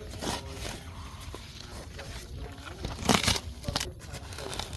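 Dry debris crunching and tearing as it is pulled apart, a run of short crackles with one louder crunch about three seconds in.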